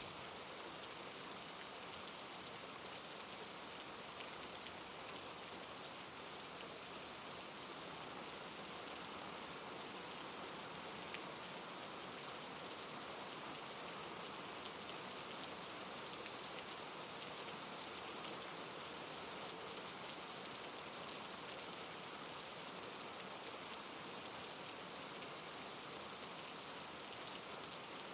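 Steady soft rain falling, an even hiss of rainfall with a few separate drops standing out now and then.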